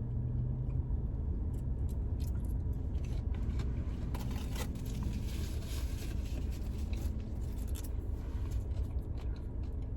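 Steady low rumble inside a car, overlaid with scattered clicks, scrapes and rustling from handling food and packaging, busiest around the middle.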